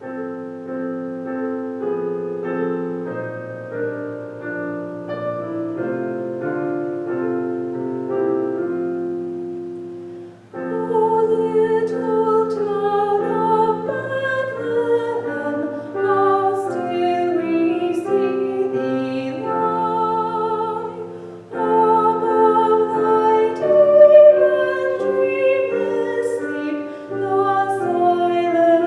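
Piano begins playing at the start, and about ten seconds in a female soloist comes in singing with vibrato over the piano accompaniment.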